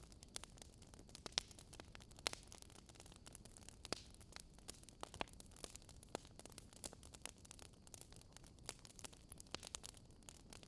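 Wood fire crackling: irregular small crackles and pops, with a few sharper snaps, over a faint hiss.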